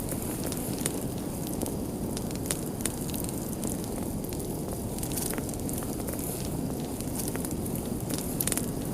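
Wood fire crackling: a steady low rush of flames with frequent sharp pops and snaps scattered throughout, a few louder ones near the end.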